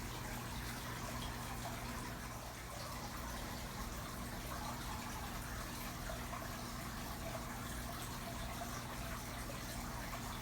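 Aquarium filter running: a steady splash and trickle of water pouring back into the tank, over a low, constant pump hum.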